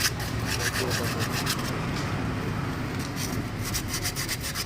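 Rapid back-and-forth scraping strokes, about six a second, of a hand tool or brush working a brake part. They run for about a second and a half, pause briefly, and start again about three seconds in.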